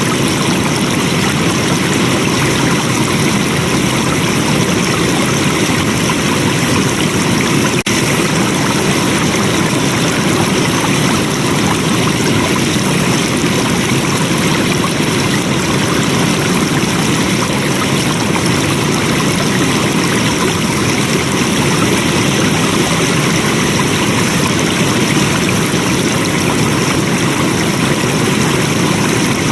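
Flowing water: a steady, continuous rush of a stream.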